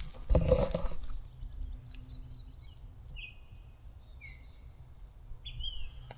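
A brief louder call or noise about half a second in, then scattered short high-pitched bird chirps and whistles over a steady low background rumble.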